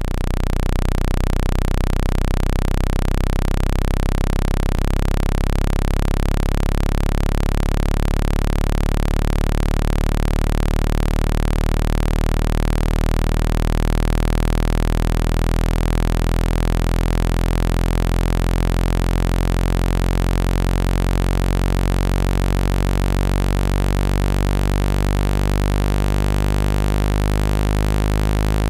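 Steady, loud, low electronic buzzing tone rich in overtones, with a slow wavering beat: a synthesized speaker-cleaning tone meant to vibrate water out of a phone speaker.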